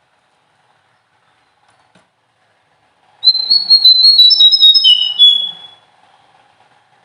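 A small songbird sings one loud, clear phrase of about two and a half seconds, a few seconds in. It is a rapid run of high whistled notes that step downward in pitch, the sharp 'nembak' style of song that caged birds are trained on.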